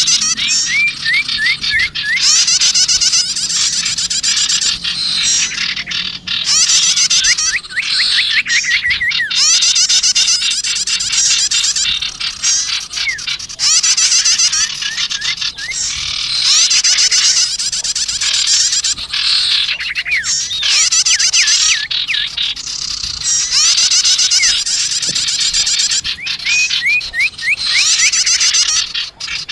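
Recorded bird-lure calls of small birds, a mix of sirtu and prenjak tamu: a loud, dense chatter of high chirps and quick trills. The calls come in phrases of a couple of seconds with brief gaps between them.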